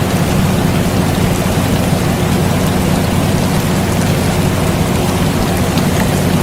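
Steady rain with scattered drop ticks over the constant low hum of an air conditioner.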